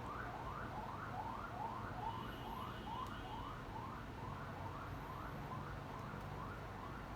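Faint electronic siren sounding in quick rising sweeps, about three a second, repeating evenly.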